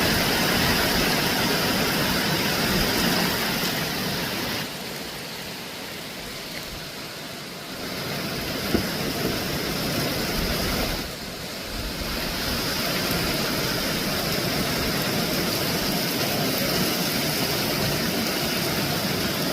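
Heavy rain pouring down, a steady dense hiss that drops in level twice for a few seconds, with a single small click about nine seconds in.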